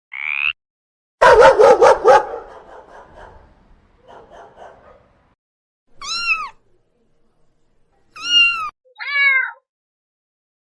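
A frog's croak at the very start, then a loud, harsh burst of rapid strokes about a second in. Later, a cat meows three times, each call rising and then falling in pitch.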